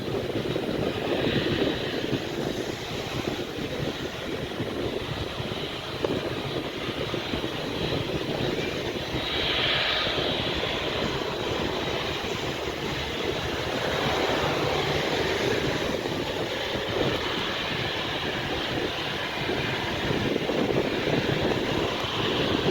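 Jet engines of a Garuda Indonesia Boeing 737 running steadily, heard from outside on the airfield. It is a continuous hissing roar, with a brighter, higher rush about ten seconds in.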